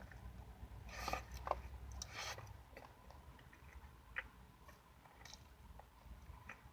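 A person chewing and eating: soft wet mouth clicks and smacks, with two louder bursts of chewing about one and two seconds in.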